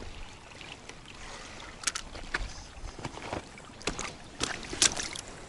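Handling sounds as a freshly landed roach and the tackle are dealt with: a few scattered, sharp light clicks and knocks from about two seconds in, over a faint steady haze of water and wind.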